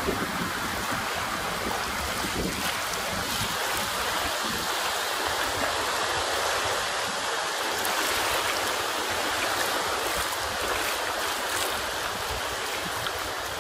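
Surf washing steadily onto a sandy beach, a continuous rushing of water.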